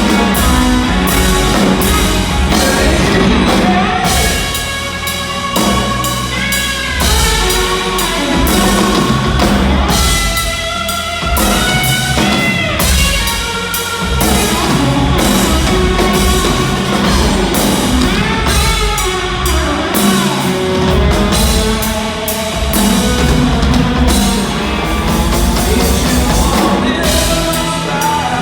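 Rock band playing an instrumental passage on drum kit and electric guitar, with bent guitar notes in the middle.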